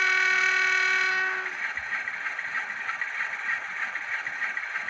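Graham Farish N gauge Class 47 model's DCC sound decoder playing a single-tone diesel locomotive horn through its onboard speaker: one steady note lasting about a second and a half.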